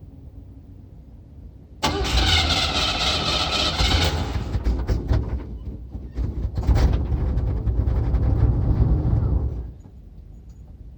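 Classic Cadillac engine being cranked by its starter and struggling to start. The cranking starts suddenly about two seconds in and runs unevenly for about eight seconds before it stops abruptly: a hard start.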